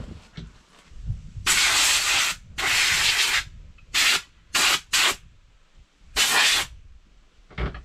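Six short bursts of spraying hiss, the first two longer, under a second each, the rest quick blasts, with quiet gaps between.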